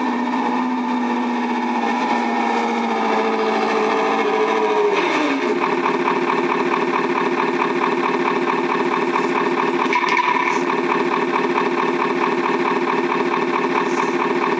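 Turbo9 sound module in a 1/14 scale Tamiya Knight Hauler RC truck, playing a simulated diesel truck engine through its speaker. The engine sound is held at raised revs, then drops back to a steady idle about five seconds in.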